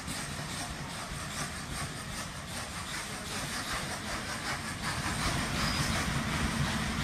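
Vintage Centoporte passenger coaches of a departing train rolling past, their wheels clicking over the rail joints, growing louder toward the end as the rear of the train nears.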